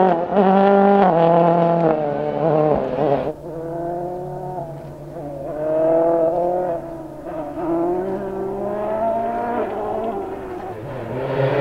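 Ford rally car's engine revving hard through the gears, its pitch climbing and dropping again and again. About three seconds in the sound turns duller and the revs build more slowly and for longer.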